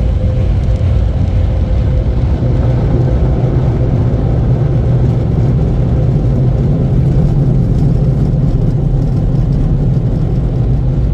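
Car wash dryer blowers blasting air over the truck, heard from inside the cab: a loud, steady rush of air over a low rumble.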